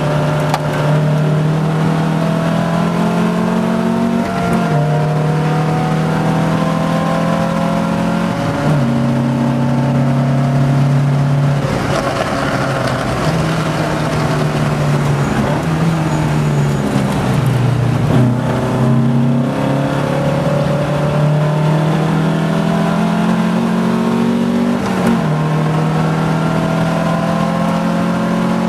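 Porsche 914 race car's engine heard from inside the cockpit at speed, its pitch climbing steadily through each gear and dropping sharply at three upshifts, with the pitch wandering in the middle stretch as the car slows and shifts for a corner.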